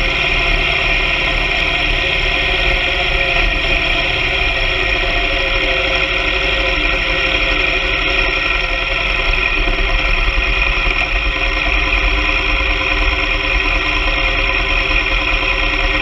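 BMW R 1200 GS Adventure sidecar rig's flat-twin boxer engine running at a steady cruising speed, a constant drone that holds one pitch throughout, with a low rumble of wind on the microphone.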